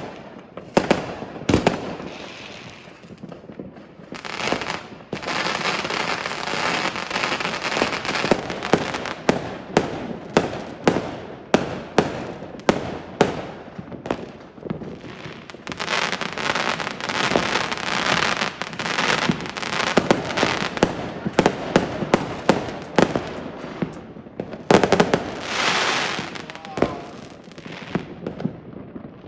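Fireworks going off from several directions: a string of sharp bangs and pops, with stretches of dense crackling from many shells bursting at once.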